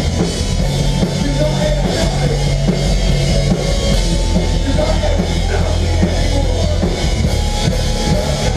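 A live melodic hardcore band playing an instrumental passage: loud drum kit with bass drum and heavy low bass, with no singing.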